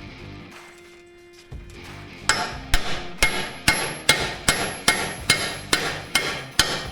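Hammer blows on steel in a steady rhythm, about two a second, each with a short metallic ring, starting about two seconds in. A tight-fitting part is being driven into a skid steer's quick-attach pivot during a bushing-and-pin rebuild.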